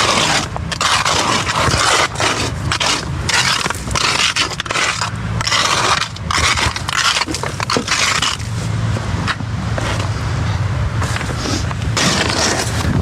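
Hand tools scraping through wet concrete in repeated, irregular strokes, with an engine running steadily and low underneath.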